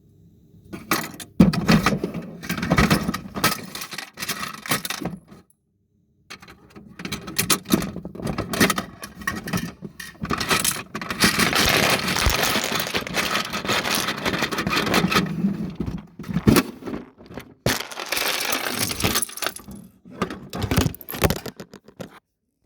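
Clattering and scraping of a Bruder toy garbage truck's plastic body, rattling around a phone that is recording from inside it. The rattling comes in long stretches, with a short break about six seconds in.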